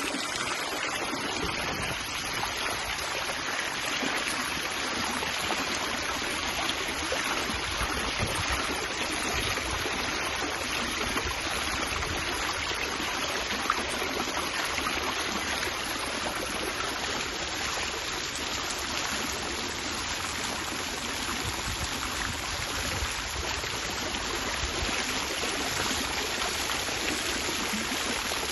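Outdoor water fountain running: a steady splash and rush of falling water.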